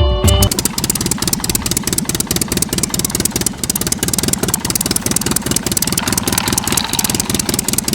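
Small engine of a DIY mini model tractor running with a fast, even putter, starting about half a second in.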